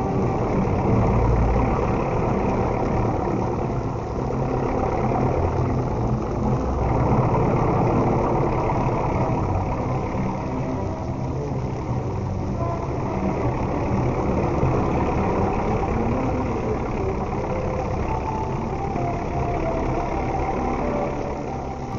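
Motor running steadily, a continuous low rumble with several hum tones over it.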